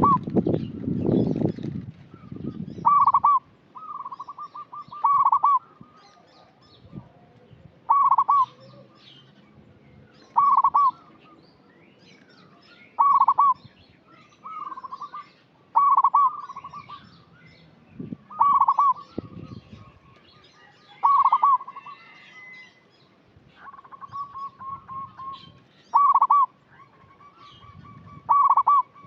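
Zebra dove (perkutut) cooing: about a dozen short calls, one every two to three seconds, several running on into a soft trill. A low rumble of noise sits under the first two seconds.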